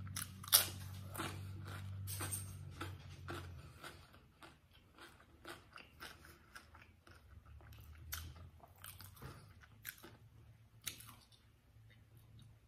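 A person chewing food close to the microphone: wet mouth noises with a string of short, sharp crunches and clicks, the loudest about half a second in.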